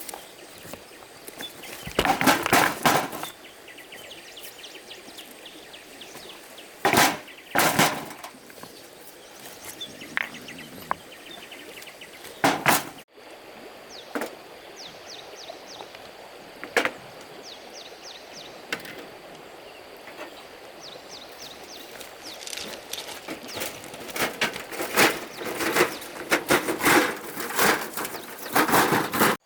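Bursts of scraping and knocking, heaviest and most rapid near the end, with faint bird chirps in the quieter stretches.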